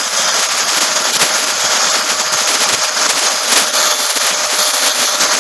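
Grinding machine running against a carbon brush to trim it to size: a dense, crackling grinding noise with a faint steady motor tone underneath.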